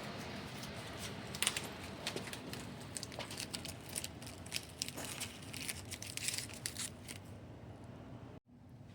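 Irregular small clicks, taps and rustles of handling, over a steady background hiss, cut off abruptly near the end.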